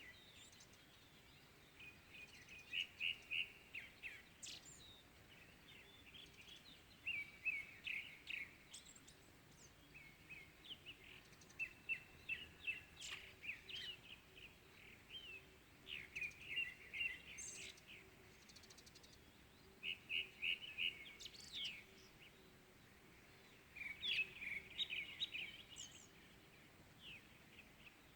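Small birds chirping and twittering in quick chattering runs every few seconds, over a faint steady low hum.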